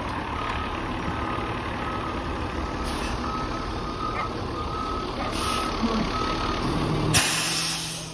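Refuse truck's reversing alarm beeping about twice a second over the truck's engine running. About seven seconds in, a sudden loud hiss cuts in and drowns the beeps.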